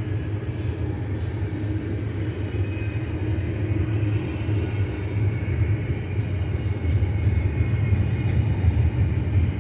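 Double-stack container train rolling past: a steady rumble of steel wheels on the rails under the loaded well cars, growing slightly louder in the last few seconds.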